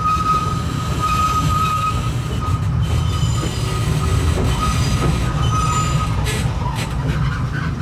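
Open-sided passenger car of the Kurobe Gorge Railway running along the track with a steady low rumble, while a high thin wheel squeal comes and goes. The sound drops away abruptly at the end.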